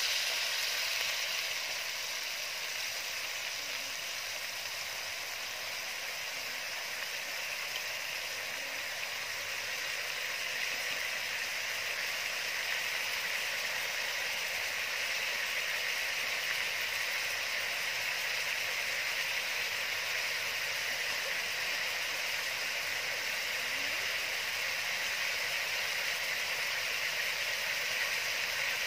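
Chopped chili and garlic sizzling steadily in hot oil in a steel wok.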